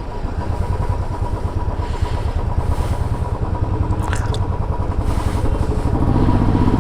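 Motorcycle engine running under way, a steady rapid low exhaust beat. The silencer has been knocked off on rough roads, so the exhaust runs without it.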